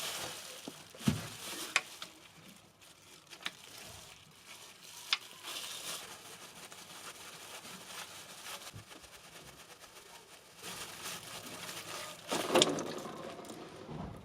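Engine oil draining from the sump of a BMW N20 engine into a drain pan, a low hissing trickle. Sharp metal knocks from the 17 mm socket and drain plug come about 1 s in, 2 s in and 5 s in, and a louder clatter comes near the end.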